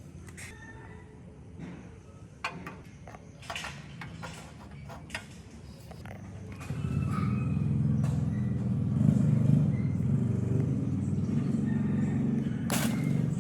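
A few light clicks and taps, then about seven seconds in a steady low rumble of a motor vehicle sets in and runs on.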